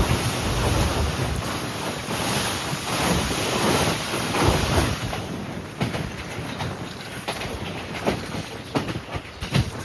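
Train running on the rails: a loud wind-like rush with low rumble, turning about halfway through into a run of sharp clicks and knocks from the wheels over the rail joints.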